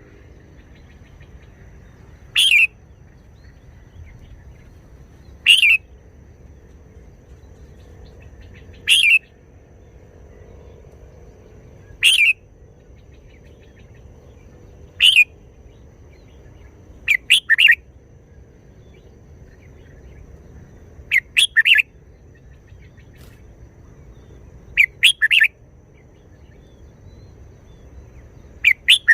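Red-whiskered bulbul singing short, loud phrases about every three seconds. From about halfway through, each phrase breaks into two or three quick notes in a row.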